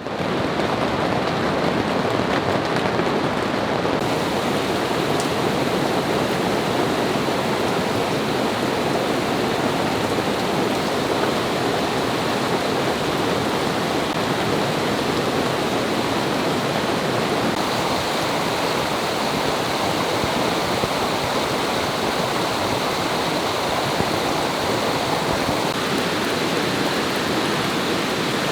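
Heavy rain pouring down: a dense, steady hiss with no breaks. It fades in at the very start.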